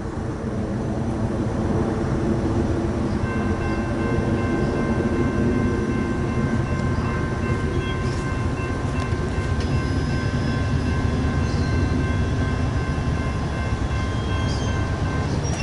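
Train rolling by, a steady rumble of wheels on rails. A faint, steady high-pitched tone sounds over it from about three seconds in until near the end.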